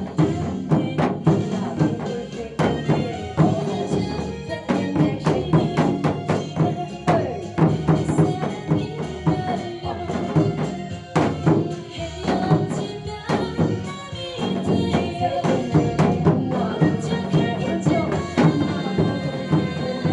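Janggu (Korean hourglass drum) played in a quick disco/go-go rhythm, sharp strokes over a trot song backing track.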